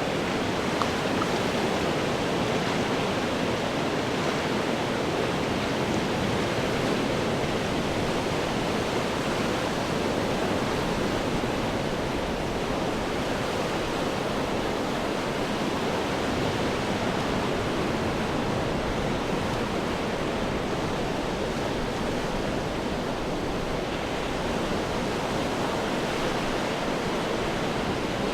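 Ocean waves breaking on rocks as a continuous, steady wash of surf, with no single crash standing out above the rest.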